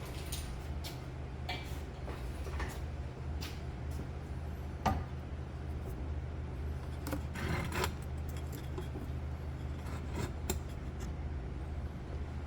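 Scattered metallic clinks, taps and scrapes of hand tools and a valve spring compressor on a Packard engine's cylinder head as the valves are taken out. A sharper knock comes about five seconds in and a short rattling scrape a little before eight seconds, all over a steady low hum.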